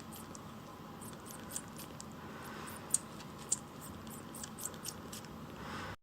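A run of faint, quick, high clicks and ticks, a few sharper ones standing out, over a steady low hiss.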